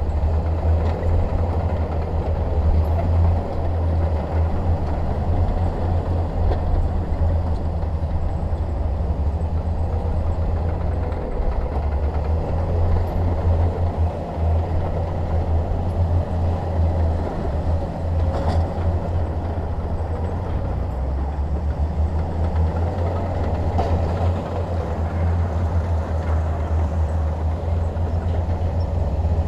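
Shantui DH17 bulldozer's diesel engine running steadily with a low rumble, shifting slightly in pitch about eleven and twenty-one seconds in.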